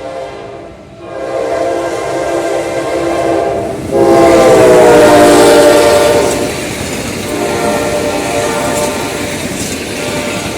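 General Electric diesel locomotive's air horn sounding three long blasts as the train passes, the loudest in the middle with its pitch dropping as it goes by, over the clatter of wheels on the rails.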